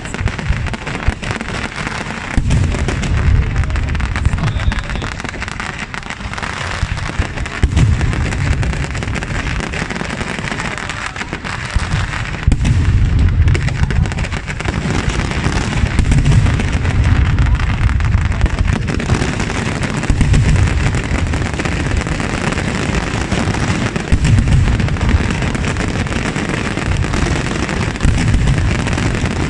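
Fireworks going off in a dense, continuous barrage: many overlapping bangs and crackles, with heavy low booms swelling in waves every few seconds.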